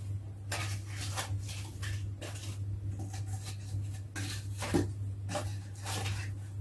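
Wood fire in a fireplace crackling, with knocks of logs being laid on it. The loudest knock comes a little under 5 seconds in. A steady low hum runs underneath.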